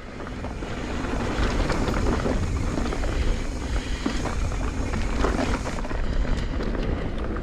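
Mountain bike descending a rough, rocky dirt trail: steady tyre and wind noise, full of rattles and knocks as the bike runs over rocks, building over the first second.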